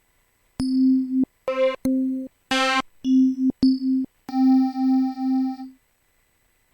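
Synthesizer sounding a string of about eight short held notes on the same low pitch, each starting with a click and each with a different tone colour, for about five seconds before stopping.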